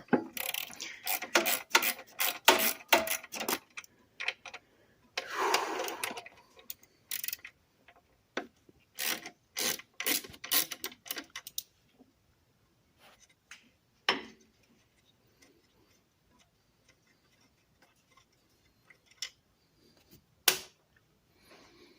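Socket ratchet clicking in short runs, with hand tools and metal parts clinking, as fasteners on the engine are worked; a brief scraping rub about five seconds in, and only a few scattered knocks after about twelve seconds.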